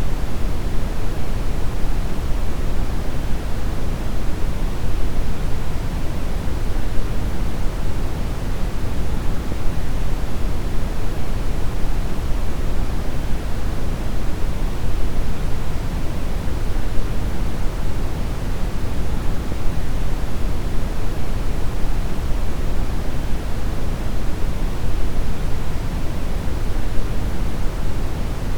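Deep brown noise: a steady, even rush of random noise heaviest in the low bass and rolling off toward the treble, with no changes.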